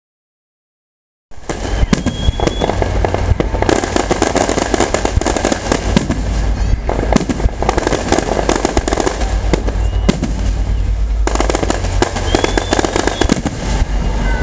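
Aerial fireworks display in a dense barrage: rapid bangs and crackling over a steady low rumble, starting after about a second of silence. A couple of short whistles rise over it.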